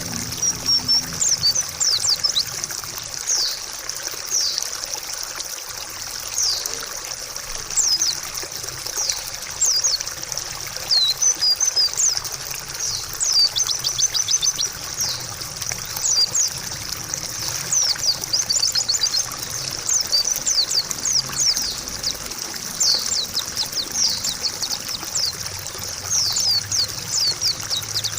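Trickling water with a white-eye (pleci) singing over it in quick, high chirps and twittering phrases.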